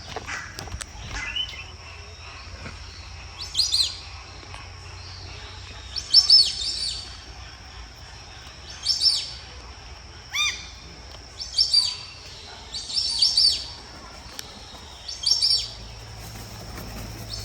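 Bird calls: about seven short, high calls, each a quick cluster of down-slurred notes, repeated every one to two seconds.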